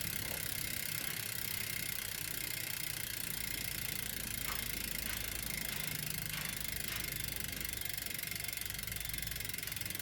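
Campagnolo Scirocco 35 rear wheel's freehub ratchet pawls clicking so fast that the clicks run together into a steady buzz as the wheel freewheels.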